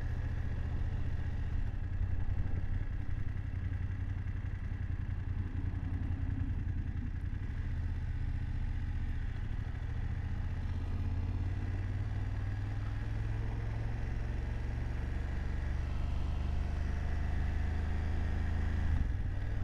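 BMW F750GS motorcycle's parallel-twin engine running steadily as the bike rides along, its note rising and falling slightly.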